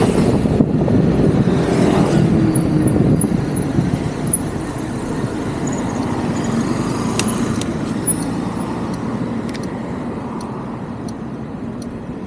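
Wind and road noise from riding an e-bike, a steady low rumble that slowly eases, with a few light clicks in the second half.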